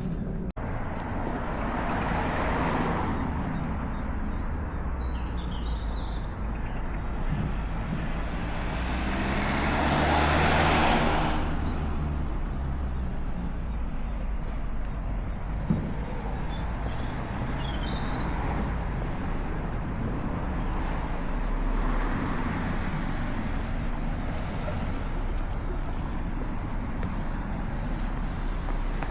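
Road traffic: a steady low rumble with vehicles passing one after another, the loudest pass-by about ten seconds in.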